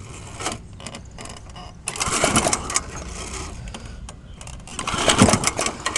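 Old lawnmower's recoil starter pulled twice, about three seconds apart, on a cold start: each pull is a short burst of the cord whirring and the engine turning over, and the engine does not catch.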